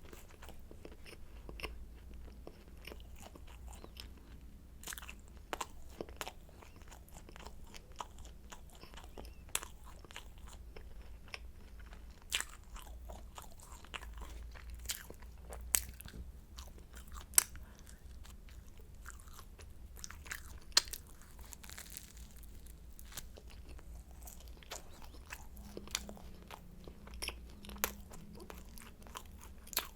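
Close-miked eating of flaky croissants: crisp crackling bites and chewing, with many small sharp crunches scattered irregularly and a few louder cracks.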